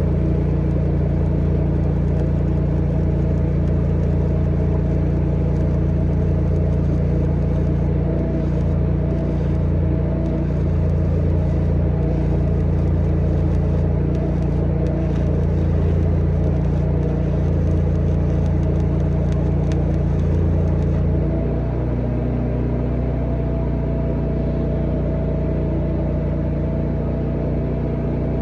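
An engine running steadily at constant speed, dropping to a lower, quieter note about 21 seconds in.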